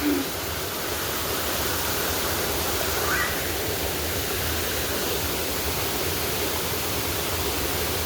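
Steady rush of falling water from a waterfall, an even hiss and roar with no change.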